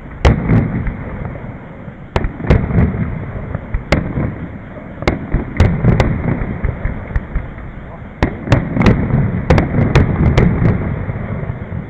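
Aerial fireworks bursting: a quick run of sharp bangs in clusters, with the thickest volley in the last few seconds, over a continuous low rumble of booms.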